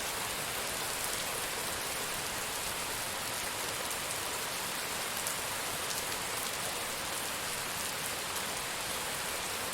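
Steady rain falling on a surface, a dense even hiss with scattered individual drops ticking.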